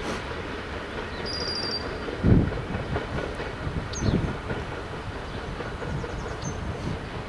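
CSX freight train cars rolling past with a steady rumble and wheel clatter, with a heavy thump about two seconds in and a lighter one about four seconds in.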